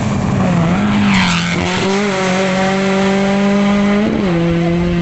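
Rally car engine running hard at high revs, its note holding steady and then stepping down in pitch about four seconds in, as at a gear change. There is a brief rushing noise about a second in.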